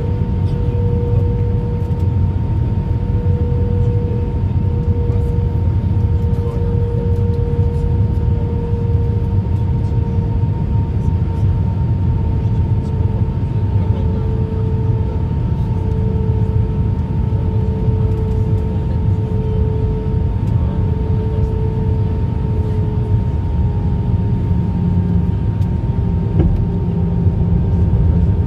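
Cabin noise inside an Airbus A319 in flight: a heavy low rumble with a steady engine tone that slowly sinks in pitch, and a deeper hum joining near the end.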